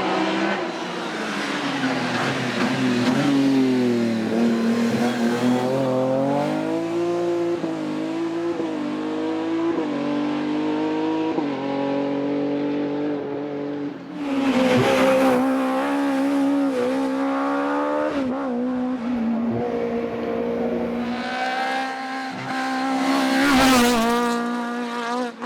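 Racing car engines at full throttle, pulling hard through the gears: the engine note climbs and drops back at each upshift, several times in a row. About 14 s in and again about 21 s in, a louder car comes in abruptly, each time revving high.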